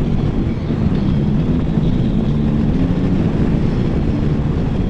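Can-Am Spyder three-wheeled motorcycle riding at a steady cruise: engine drone with wind and road noise.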